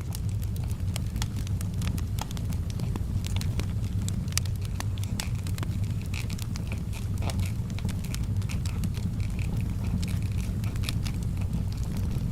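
Fireplace fire crackling: scattered pops and snaps over a steady low rumble.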